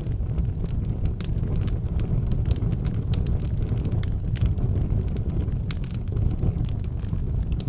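Wood fire burning in an outdoor fireplace: a steady low rumble of the flames with frequent irregular sharp crackles and pops.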